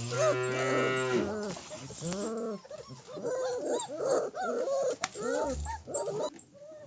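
Young dogs whining and yelping: a long, low call first, then a quick string of short cries that rise and fall in pitch.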